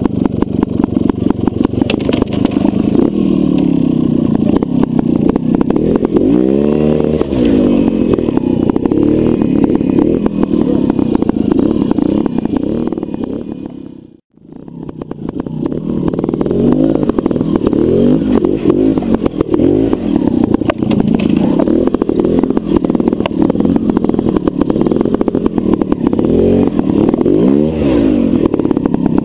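Trials motorcycle engine running close to the microphone, blipped on the throttle several times, each time rising and falling in pitch. The sound cuts out briefly about halfway through, then the engine carries on.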